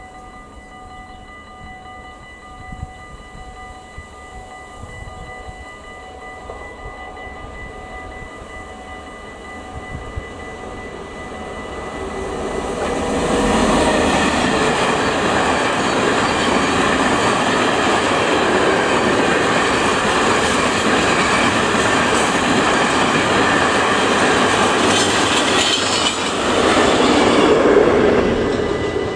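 Strukton 1800-series electric locomotive hauling a noise-barrier work train past on the track. It approaches with a faint steady whine, then the wheels and wagons pass loudly from about halfway through, loudest near the end, and the noise is just starting to fade.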